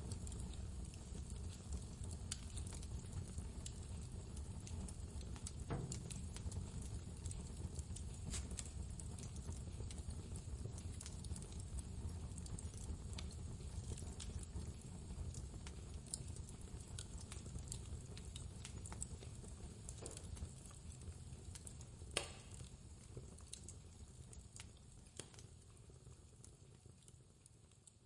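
Fireplace crackling with scattered sharp pops over a steady low rumble of blizzard wind. The whole sound fades down over the last few seconds.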